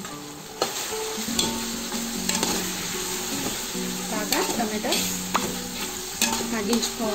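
Chopped tomatoes sizzling in hot oil with onions and ginger-garlic paste in a steel pot, stirred with a metal spoon that clicks and scrapes against the pot's side. The sizzle picks up about half a second in, when the stirring starts.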